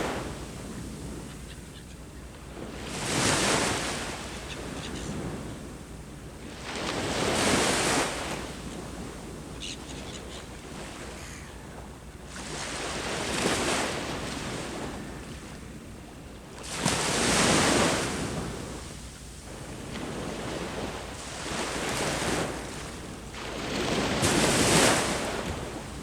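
Ocean waves breaking on the shore, a surge of surf swelling and falling away about every four seconds, six times.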